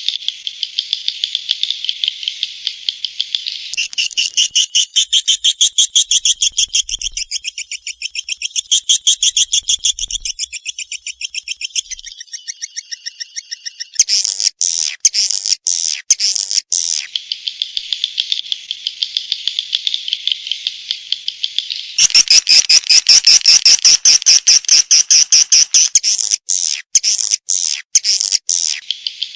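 A recorded swiftlet lure call ('suara panggil walet') of the kind played to draw edible-nest swiftlets into a nesting house. It is dense, rapid, high-pitched chirping trills whose pattern shifts every few seconds, with short breaks in the chirping about halfway through and again near the end.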